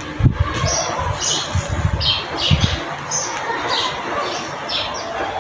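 Small birds chirping in short, repeated notes, with low irregular rumbling thuds under them for the first few seconds.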